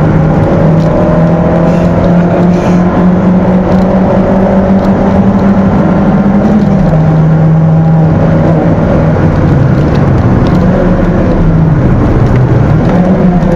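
Peugeot 206's stock 1.6-litre four-cylinder engine running hard under load, heard from inside the cabin. Its pitch holds steady, steps down about seven seconds in, dips lower near the end as the car comes up to a corner, and then climbs again.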